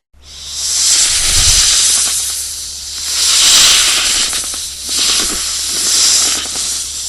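An animal hissing: a long, toneless hiss that swells and fades in about four drawn-out breaths.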